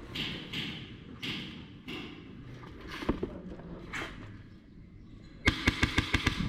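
A few soft thuds and rustles, then, about five and a half seconds in, a rapid string of sharp, evenly spaced cracks, about ten a second for roughly a second: an airsoft rifle firing a short full-auto burst.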